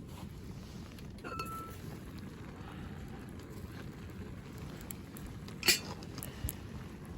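A short ringing clink about a second in and a sharp click near the end, the loudest sound, with a few fainter clicks, over a low steady background noise.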